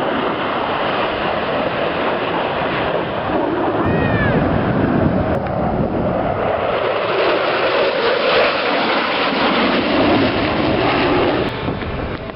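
Aircraft passing by: a loud, steady roar of engine noise that swells through the middle and drops off just before the end.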